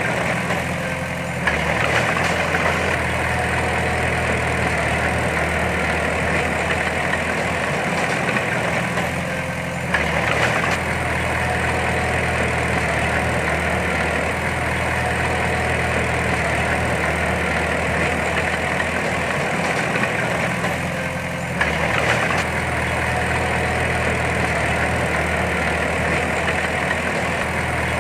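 Heavy diesel engine of an earthmoving machine running steadily. It dips briefly and picks up again three times: near the start, about ten seconds in and about twenty-one seconds in.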